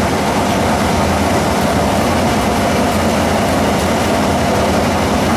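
Steady, loud running of race car engines on a dirt track, a dense even roar with no single car passing out clearly.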